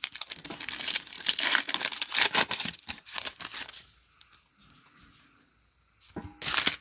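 A trading-card pack wrapper torn open and crinkled for about four seconds. A short, loud burst of noise comes near the end.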